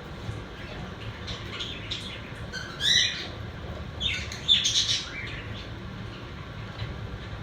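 Pet budgerigars chirping and chattering, with a louder rising squawk about three seconds in and a burst of loud calls about a second later, over a steady low room hum.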